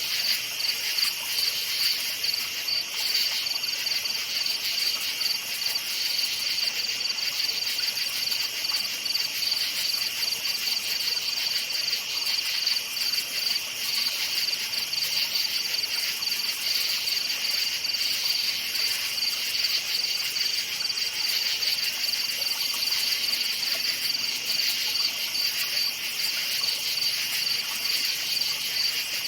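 A chorus of crickets chirping steadily at night, with rapid, continuous trills at two pitches.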